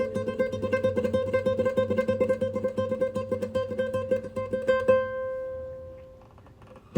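Instrumental music on a plucked string instrument: rapid, evenly repeated picked notes for about five seconds, then a single note left to ring and fade away before a new chord starts at the very end.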